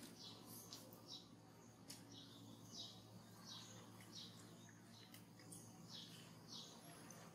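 Faint bird chirps, short high notes repeating about twice a second, over a low steady hum.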